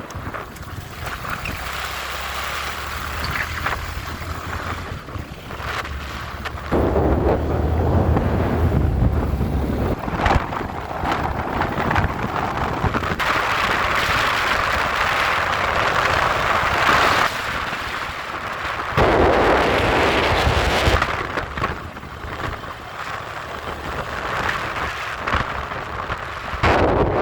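Wind buffeting the microphone on a moving motorcycle, over a low, steady engine hum, with sudden louder gusts about seven seconds in and again near twenty seconds.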